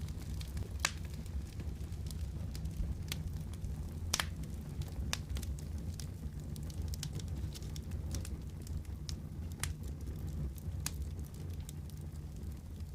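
Fireplace wood fire crackling: scattered sharp pops over a steady low rumble, the loudest pop about four seconds in.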